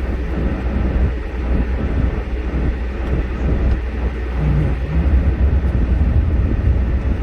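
Vehicle driving, heard from inside the cab: a steady low rumble of engine and road noise.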